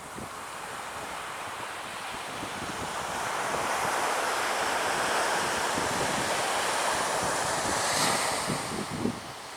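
Beach surf with wind buffeting the microphone. A broad rush of noise builds from about two seconds in, holds loud through the middle, then eases near the end.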